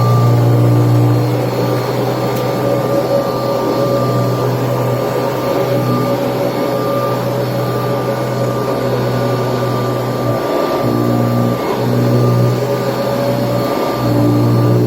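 Kirby Tradition upright vacuum cleaner running steadily while vacuuming, a loud, even motor hum that dips briefly three times in the second half.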